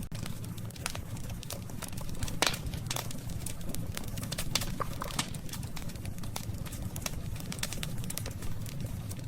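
Wood campfire crackling: irregular sharp pops and snaps over a steady low rumble from the burning fire, with one louder pop about two and a half seconds in.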